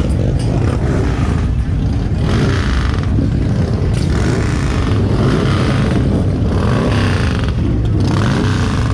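Kawasaki Vulcan Vaquero 1700's V-twin engine running steadily under way, heard from the rider's helmet microphone, with wind rush swelling and fading every second or two.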